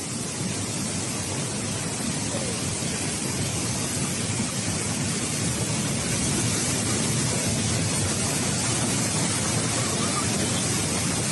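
Steady rushing noise of water, as from fast-flowing floodwater.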